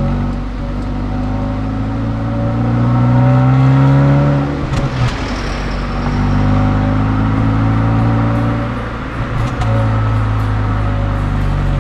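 Honda Fit GE8's 1.5-litre four-cylinder engine pulling under acceleration. The engine note climbs steadily, falls back sharply at a gear change about four and a half seconds in, climbs again, falls at a second change near nine seconds, then rises once more.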